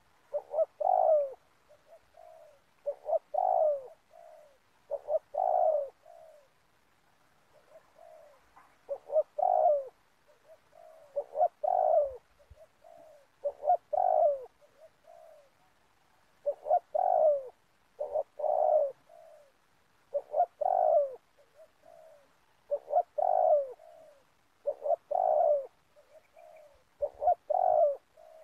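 Spotted dove cooing over and over: short phrases of a few deep coos, one every two seconds or so, with softer notes between them.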